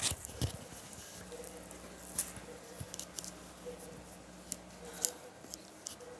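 Scattered light clicks and rustles of objects being handled, with a sharper click right at the start and a few more spread through.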